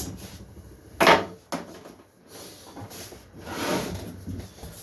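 Handling noises on a wooden workpiece: a sharp knock about a second in, then a rubbing, scraping sound a little past halfway.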